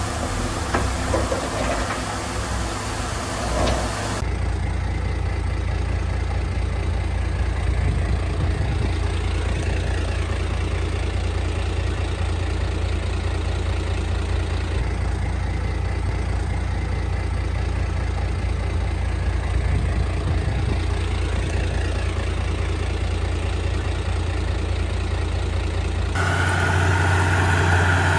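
Heavy diesel earthmoving machinery engine running with a steady low rumble. The sound changes abruptly about four seconds in and again near the end.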